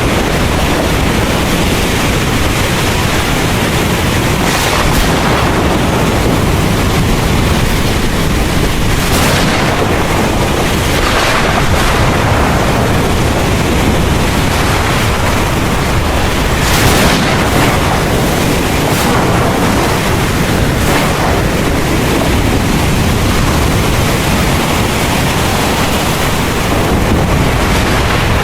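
Heavy rain pouring steadily over a deep, continuous thunder rumble, with several brief louder surges of rain or wind.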